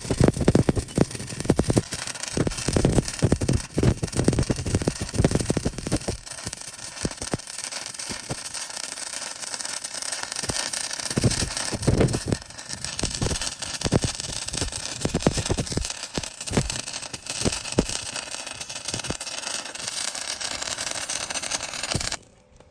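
Electric arc welding on a steel excavator boom: a steady crackling sizzle with irregular sharp pops, stopping suddenly near the end.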